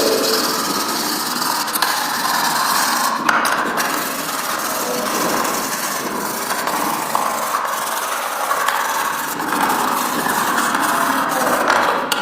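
Steady abrasive rubbing on a hard surface, like sanding or scrubbing a laptop part, with abrupt breaks about three seconds in and near the end.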